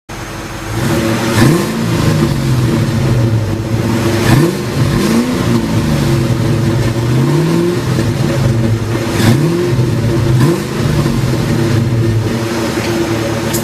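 2003 Mustang SVT Cobra's supercharged 4.6-litre V8 idling and being revved in neutral: about five quick blips, each climbing fast and sinking slowly back to idle.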